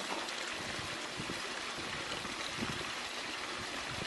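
Steady rushing noise of running water, like a stream.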